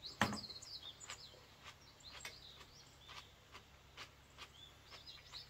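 Small birds chirping repeatedly, with scattered short clicks and taps of eating with chopsticks from a bowl; the loudest click comes about a quarter second in.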